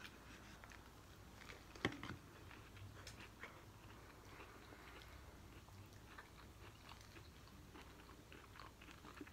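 Faint close chewing and biting of fried chicken: soft scattered mouth clicks and crunches, with one sharper click about two seconds in.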